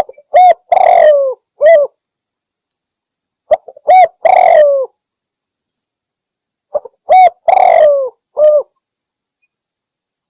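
Spotted dove (Javan derkuku) singing: three cooing phrases about three seconds apart, each made of a couple of faint lead-in notes, a long coo that falls away at its end, and a short closing coo.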